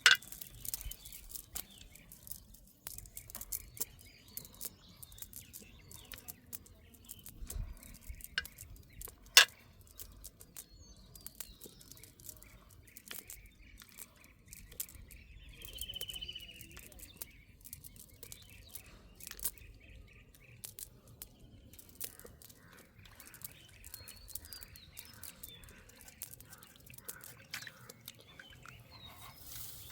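Small birds chirping now and then, with one short trill about sixteen seconds in, over scattered sharp clicks and knocks; two of the knocks, one at the very start and one about nine seconds in, are much louder than the rest.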